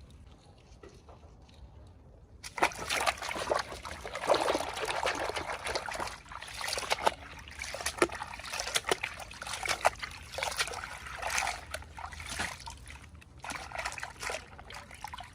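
Water sloshing and trickling with irregular small splashes, starting suddenly about two and a half seconds in and going on unevenly.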